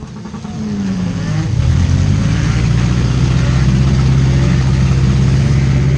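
A 2001 Subaru Outback derby car's four-cylinder engine revving up over the first second and a half, then held at steady high revs under throttle.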